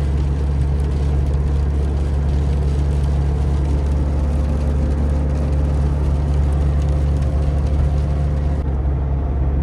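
Steady engine and road drone inside a GAZelle van's cab while driving, a constant low hum.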